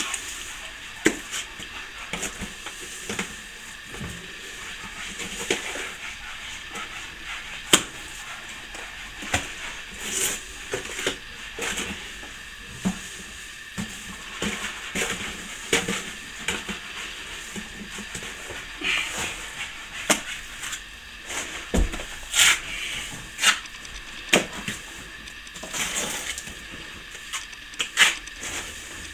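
Hand plastering tools scraping and smoothing fresh plaster on a wall, with irregular scraping strokes and frequent sharp taps and clicks of the tool.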